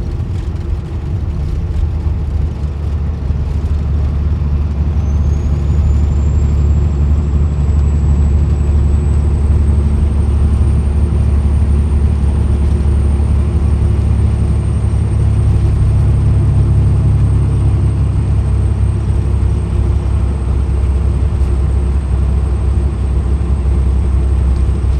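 Peterbilt 379's 550 hp Cat C-15 diesel engine pulling the truck down the highway with a steady low drone that grows a little louder over the first few seconds. A thin high whine comes in about five seconds in, rises, and then holds steady.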